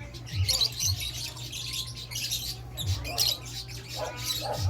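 Many caged lovebirds and parakeets chirping and squawking together: quick high chirps throughout, with louder, lower calls near the end, over a steady low hum.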